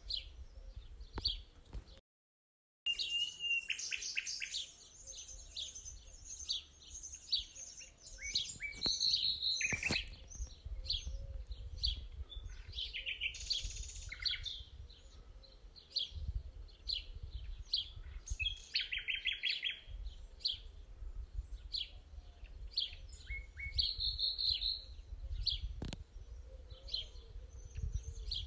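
Several small birds chirping and trilling in quick, overlapping phrases, over a steady low rumble. The sound drops out completely for a moment about two seconds in.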